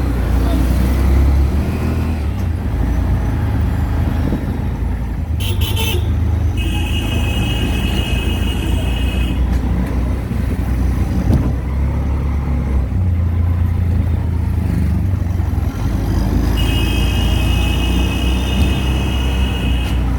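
Auto-rickshaw engine running with road noise while riding in traffic. A vehicle horn sounds twice, each time held about three seconds.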